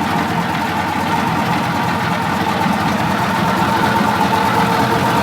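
Diesel engine of a 1984 Grove TMS180 hydraulic truck crane running steadily, with a fast even pulse and a steady whine.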